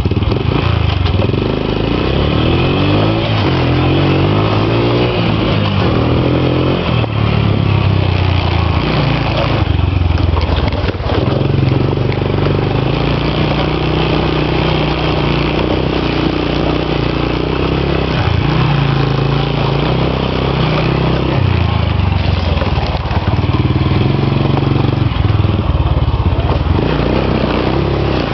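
Motorbike engine running under way, its pitch rising and falling as it revs and eases off, with rattling over rough ground.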